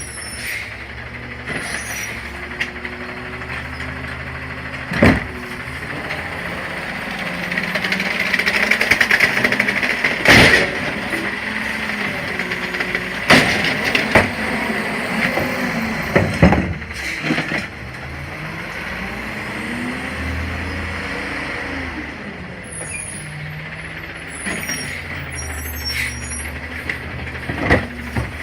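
CNG garbage truck working a pickup: the engine runs steadily while the hydraulics whine up in the middle, with several sharp bangs and clanks as the cans are handled and dumped.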